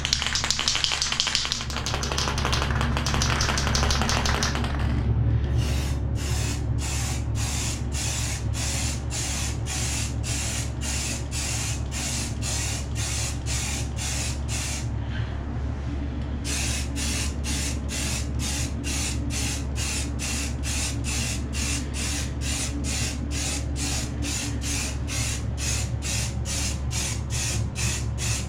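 Aerosol spray-paint can hissing as flat white paint is sprayed, one continuous spray for about five seconds, then short regular puffs about two a second. A steady low hum runs underneath.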